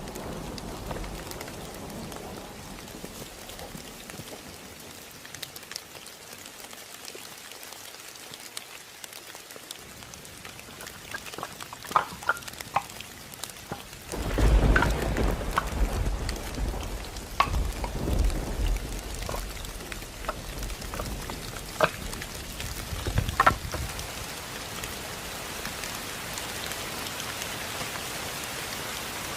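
Heavy rain falling steadily. About halfway through, a low rumble of thunder rolls in and lasts several seconds, with a few scattered sharp taps over the rain.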